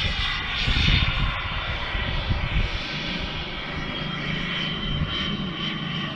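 Turbine engine of a radio-controlled jet plane running in flight: a high whine over a steady rushing roar.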